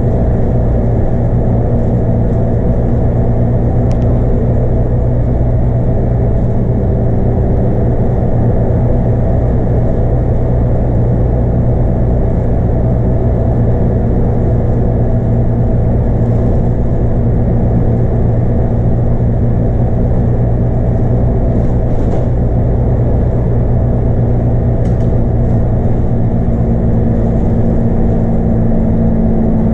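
Scania K230UB bus's 8.9-litre five-cylinder DC9 diesel engine running at a steady pitch while the bus is under way, a steady drone mixed with road noise, heard from on board.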